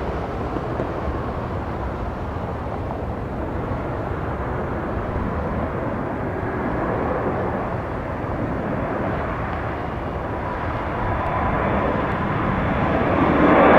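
Jet airliner engines heard as a steady distant rumble, swelling louder over the last couple of seconds.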